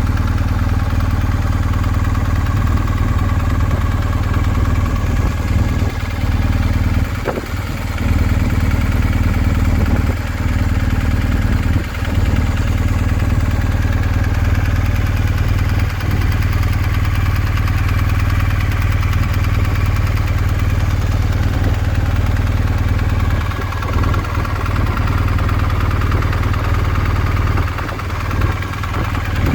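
Motorcycle engine idling steadily, with a few brief dips in level along the way.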